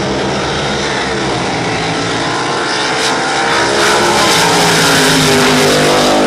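Drag boat racing engines running loud, with many engine tones layered together. The sound grows louder about three and a half seconds in.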